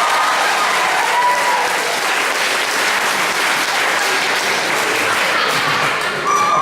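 Audience applauding steadily, with a few voices heard over the clapping.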